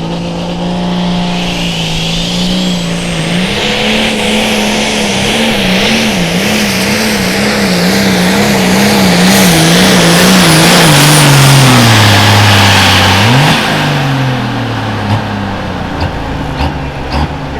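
A turbocharged diesel pulling tractor runs hard under load. Its engine pitch climbs, wavers up and down steadily, then falls away as the engine is pulled down. It gives one quick rev near the end and then eases off.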